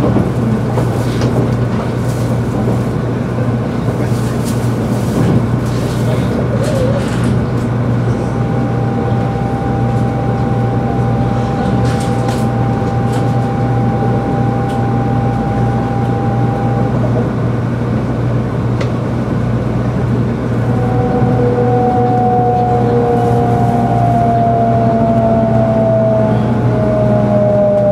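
Inside a 300 series Shinkansen motor car: steady rumble and low hum, with a thin whine in the middle. About two-thirds through, the traction inverter's VVVF whine comes in as several tones sliding slowly down in pitch, with a few light clicks.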